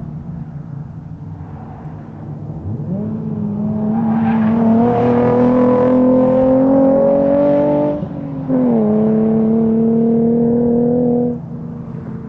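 Nissan 350Z's 3.5-litre V6 at full throttle, its note climbing steadily in pitch, then a brief break for an upshift about eight seconds in. It pulls again at a lower pitch and drops away suddenly near the end.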